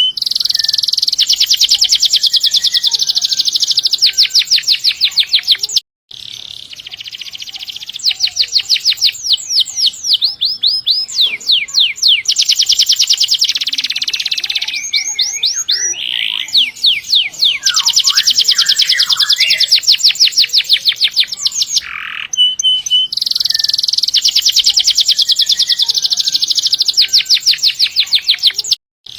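Domestic canary singing loud, long rolls: rapid trills of fast, evenly repeated notes held for several seconds at a time, with short breaks between phrases.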